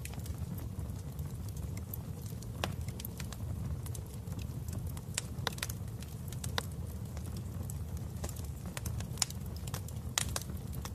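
Wood fire burning in a fireplace: a steady low rumble of flame with sharp crackles and pops at irregular intervals.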